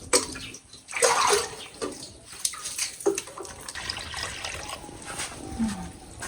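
Water running and splashing, with scattered light clicks and clatters.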